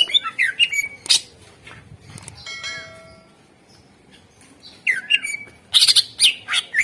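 Green leafbird (cucak ijo) singing hard: loud, harsh chattering notes and quick whistled slurs, a short run of steady whistled tones in the middle, then a dense burst of sharp notes near the end.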